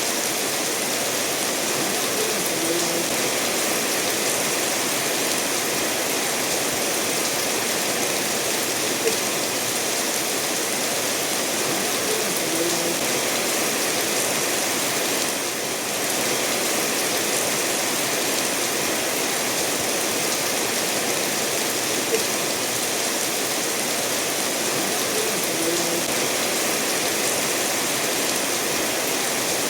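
Steady rainfall mixed with a stream of water flowing over stones, an even, unbroken rushing hiss.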